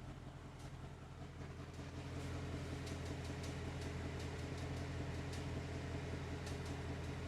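The 2021 Mustang GT's air conditioning making an irregular light ticking: scattered sharp ticks that come more often after a few seconds, over the car's steady low hum.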